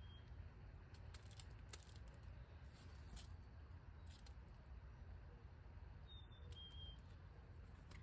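Faint backyard birdsong: two short, high whistled chirps about six seconds in, with scattered light clicks and taps over a low steady rumble.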